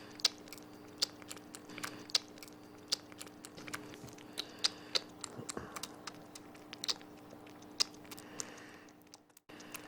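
Baby cinnamon capuchin monkey suckling from a bottle: quick, wet sucking and smacking clicks at an irregular pace, over a faint steady hum.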